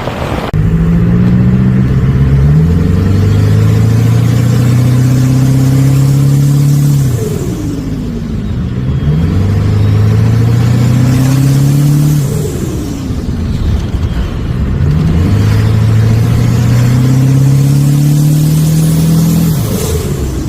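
Ford 7.3 IDI diesel V8 with an S366 turbocharger revved up three times and held for several seconds each, the turbo whistling as it spools. Each time the throttle closes the revs fall away and the turbo flutters as it winds down.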